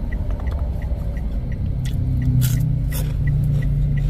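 Low, steady rumble of a car heard inside the cabin, with a faint, regular ticking about three times a second. A few short clicks fall near the middle.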